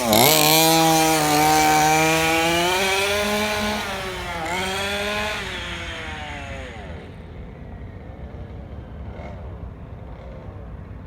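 Small 32cc two-stroke engine of a 1/5-scale gas RC car, newly fitted and being broken in, running with a buzzing pitch that swoops down at the start and again about four and a half seconds in, then drops in pitch and fades away over the next couple of seconds.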